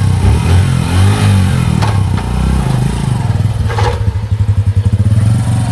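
Motorcycle engine running just after being started, its speed wavering up and down for the first few seconds, then settling into a steady, pulsing idle.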